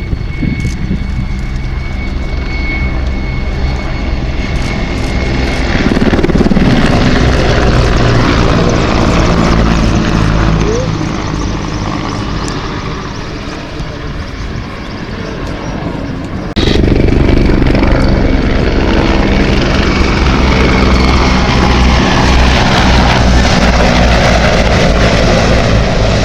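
Mil Mi-171Sh twin-turboshaft helicopter flying, its rotor beating in an even low throb. It grows louder about six seconds in, eases off, then turns suddenly louder about two-thirds of the way through.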